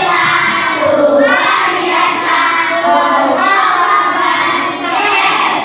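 A class of young children chanting loudly in unison, many voices together. It is their chorused reply to the teacher's greeting asking how they are today.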